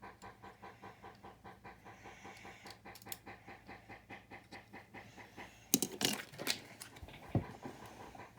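A dog panting fast and steadily, about four to five breaths a second. A little after halfway, a short clatter of sharp clicks from plastic building bricks being handled, followed by a single low thump.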